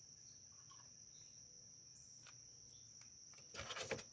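Steady high-pitched chirring of crickets or other insects, faint against near silence, with a few soft clicks of handling near the end.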